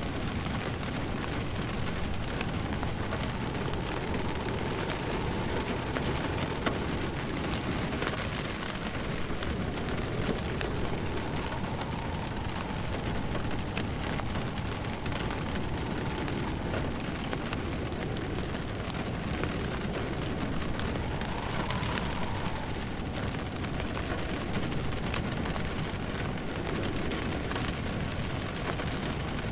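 Steady rain falling, mixed with the close crackle and pops of a wood fire burning in a fireplace. Underneath, a low wind howl rises and falls.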